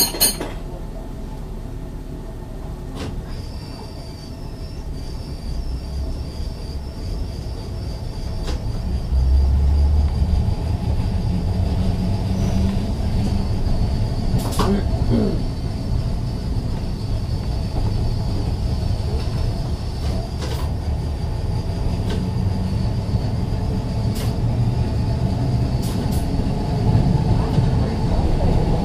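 Ex-Liverpool Corporation tram 869 running along the track: a low rumble of wheels and motors that grows louder in the first ten seconds, with a steady high-pitched whine over it. There is one sharp click at the start and a few more scattered through.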